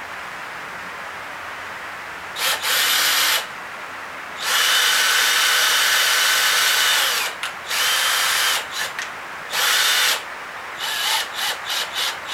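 Electric drill run in several trigger bursts, the longest about three seconds, with a steady whine, then a quick series of short blips near the end.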